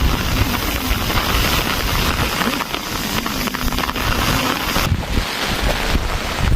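Steady heavy rain, with wind buffeting the microphone.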